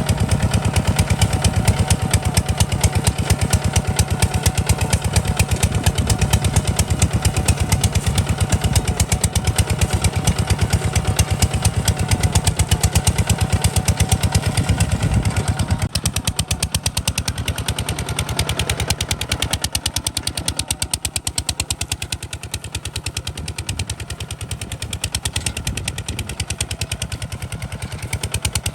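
Kubota RT140 DI single-cylinder diesel engine of a home-built tractor running steadily with a rapid, even chugging of firing pulses, a little quieter from about halfway through.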